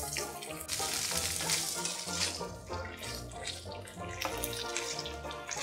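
Ridge gourd peel sizzling as it fries in oil in a kadai, with a spatula stirring it now and then, under background music with a repeating bass line.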